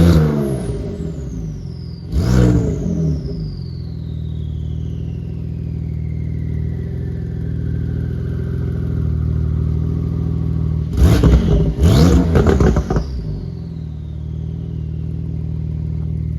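Porsche 992 911 Turbo S twin-turbo flat-six idling steadily and blipped through its exhaust: one rev about two seconds in, then three quick revs together about eleven seconds in. A thin high whistle falls slowly after the revs.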